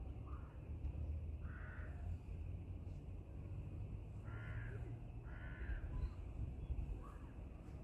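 A bird calling five times in short calls, the second, third and fourth loudest, over a steady low rumble.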